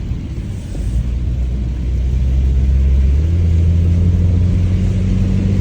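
Mitsubishi Lancer's engine running under way, getting louder about a second in and rising in pitch about three seconds in as the car speeds up.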